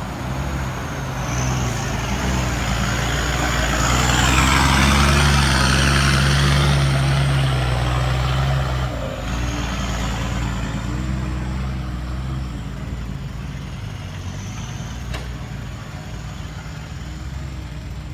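Diesel dump truck engine under full throttle, climbing out of the pit. It swells to its loudest a few seconds in and then eases off, with a high whine rising and falling above it.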